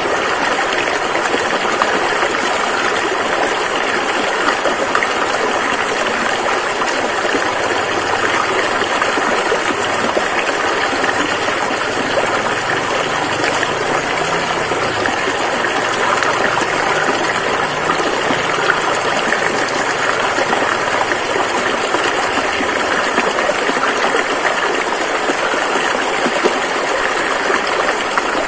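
Rushing river, a steady dense rush of flowing water.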